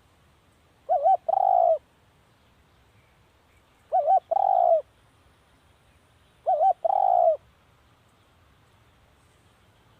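Spotted dove cooing: three calls about two and a half to three seconds apart, each a quick doubled note followed by a longer falling coo. This is the repeated call used as a decoy to draw in wild spotted doves.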